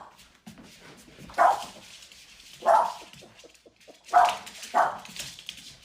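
A dog barking: four short barks, the first two well spaced and the last two close together near the end.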